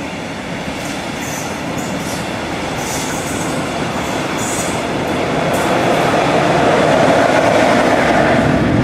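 A train running along the track, its rolling noise growing steadily louder as it approaches. Brief high-pitched squeals come several times in the first half.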